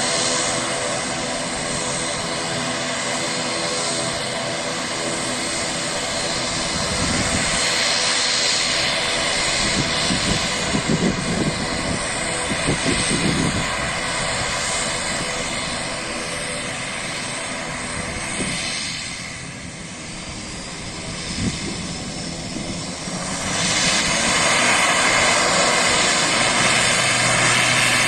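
Airliner's engines running during take-off: a steady engine noise with many held tones. It dips about twenty seconds in, then grows louder a few seconds before the end.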